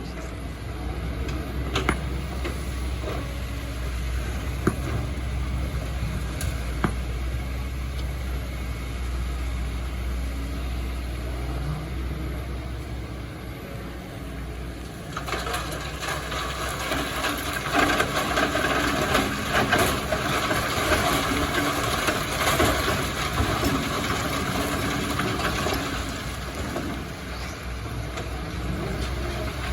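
Excavator engine running steadily, with a few sharp clicks early on. About halfway a louder rough, grinding noise sets in for some ten seconds, then dies back to the engine.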